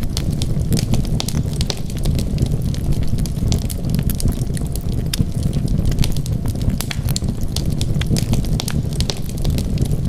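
Wood fire burning, with frequent sharp crackles and pops scattered irregularly over a steady low rumble of the flames.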